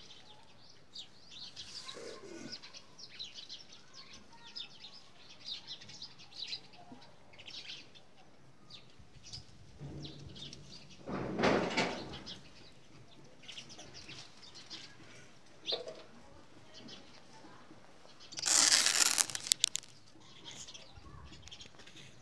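Small birds chirping in the background. A brief noisy burst comes about 11 seconds in, and a louder one of about a second comes near 19 seconds.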